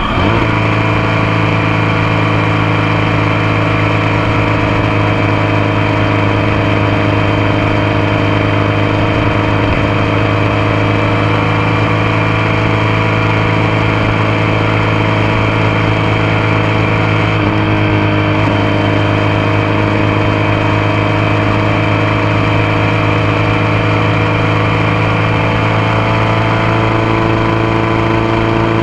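Motorcycle engine running at a steady cruise, heard close up from a foot-peg mount with wind noise. There is a brief dip and recovery in engine pitch right at the start, a small wobble about eighteen seconds in, and a slight change in tone near the end.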